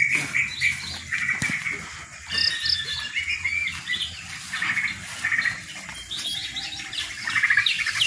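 Small birds chirping and calling: many short, high notes overlapping, a little louder near the end.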